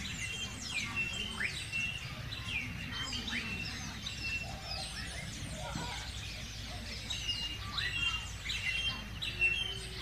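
Birds chirping and calling steadily, a busy run of quick falling chirps mixed with short high whistles, several calls overlapping.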